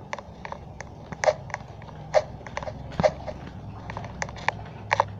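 Irregular short clicks and crunches, about two a second, over a low steady hum.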